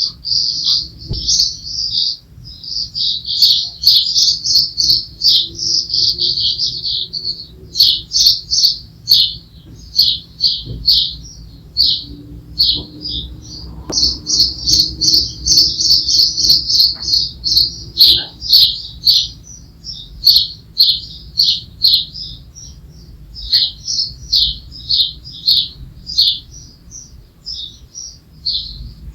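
Birdsong: loud, rapid high chirps repeated several times a second, in runs with short gaps.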